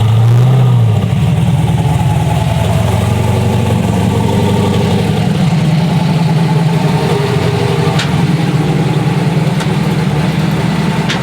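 Very loud Ford Mustang engine running, revved briefly right at the start and then settling into a steady, uneven rumble.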